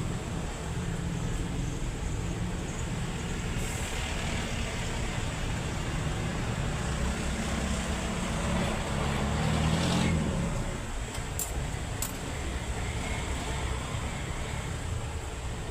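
Isuzu 10PC1 V10 diesel engine running with a steady low rumble. It grows louder from about eight to ten seconds in, then eases back.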